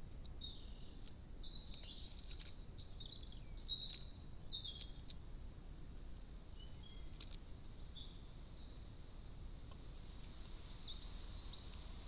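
Birdsong: short whistled phrases gliding up and down, busiest through the first five seconds and fainter again later. A few sharp taps cut through, the loudest about four seconds in, over a steady low background hum.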